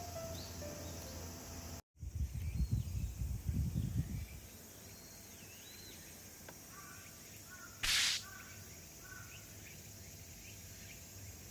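Outdoor background with birds calling repeatedly, after a couple of seconds of wind rumbling on the microphone; a short hiss sounds about eight seconds in. Background music fades out in the first second.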